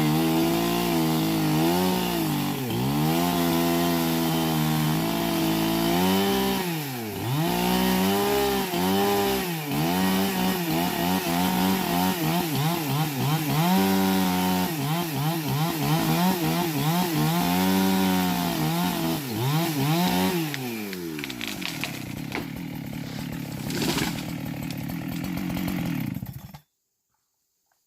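Chainsaw running at high revs while cutting wood, its pitch sagging and recovering again and again as the chain bites. About 21 seconds in, it drops to a lower, steady idle, then cuts off abruptly near the end.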